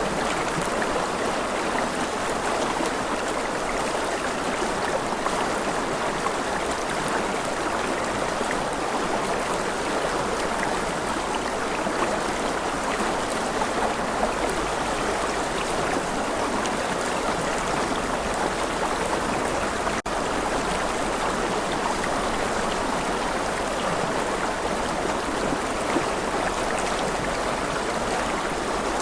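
Steady rush of a flowing stream, an even wash of water noise with a momentary dropout about twenty seconds in.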